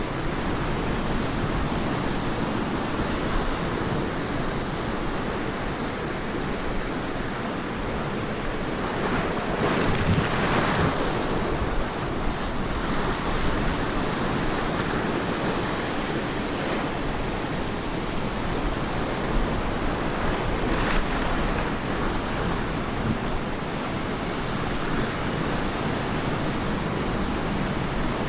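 Ocean waves washing onto the shore in a steady rush of surf, with one wave breaking louder about ten seconds in.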